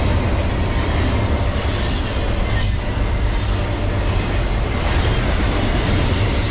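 A double-stack intermodal freight train rolling past at about 50 mph, its wheels making a steady rumble on the rails. Twice, about two and three seconds in, there is a short spell of high-pitched wheel noise.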